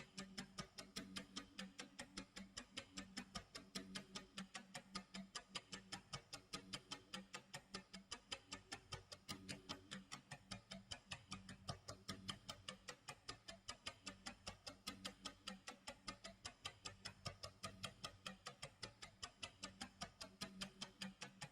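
Tick-tock clock sound effect: faint, evenly spaced ticks repeating several times a second over a low steady tone.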